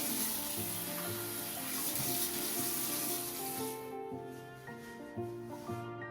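Water running from a tap in a steady hiss that stops abruptly about four seconds in, over background music.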